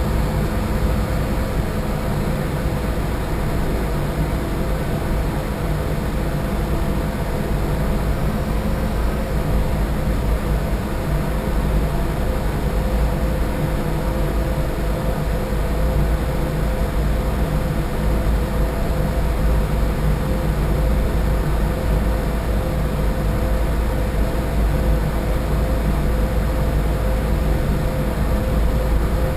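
Boat engine running steadily on board: a constant low drone with a steady hum and no change through the whole stretch.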